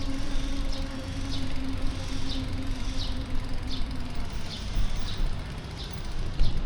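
Street ambience heard from a moving bicycle: a low rumble of traffic and wind, a steady hum that fades out about four seconds in, and a short high chirp repeating about every 0.7 seconds.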